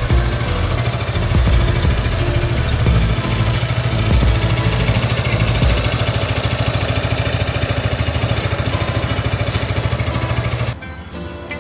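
Motorcycle engine idling steadily. Near the end it drops away and guitar music takes over.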